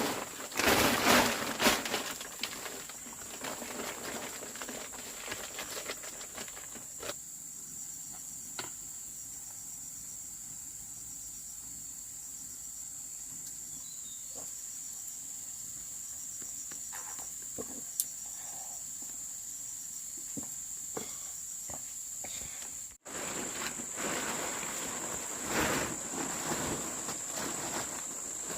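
Insects droning steadily at one high pitch, with scattered rustles and light knocks. The sound cuts out for an instant about two-thirds of the way through.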